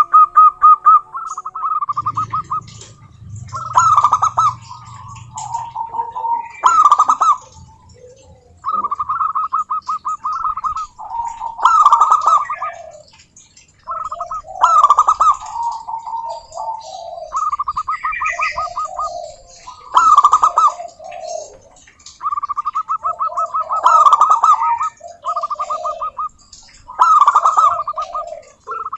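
Zebra dove (perkutut) cooing song: phrases repeat every few seconds, each a rapid stuttering run of short notes followed by a few louder, lower coos.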